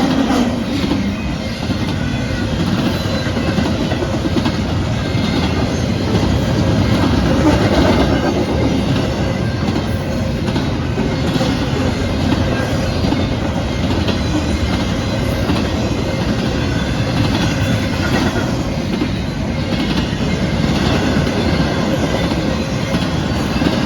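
A train passing close by: a steady rumble of wheels on the rails with irregular clicking from the rail joints.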